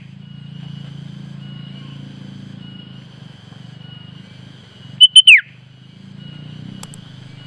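Sooty-headed bulbul (kutilang) calling once about five seconds in: a few quick high notes followed by a loud whistle that slides steeply down in pitch. The uploader presents it as a female's call to a rival. A faint steady high whine and a low hum run underneath.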